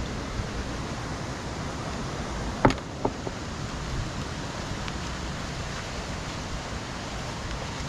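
Steady rushing of a rain-swollen river in spate, with a sharp knock about two and a half seconds in and a smaller one just after.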